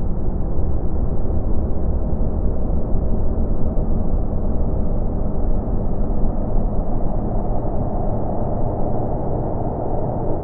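Space-sound track presented as the sound of comet Hale-Bopp: a dense, steady low rumble with a faint hum underneath.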